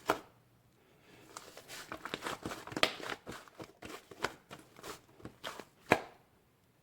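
Irregular light clicks and taps of small objects being handled, with some crinkling; the sharpest click comes near the end.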